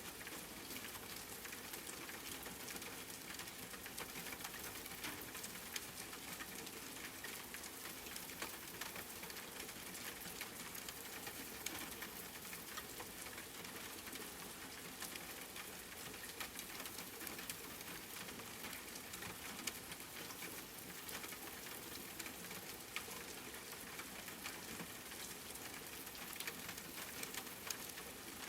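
Steady rain falling and pattering on a surface, an even hiss of water with many small drop ticks.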